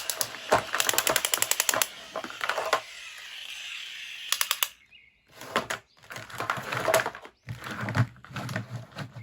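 Rapid mechanical clicking, about ten clicks a second, for the first two seconds, then a brief hiss and several short noisy bursts separated by pauses.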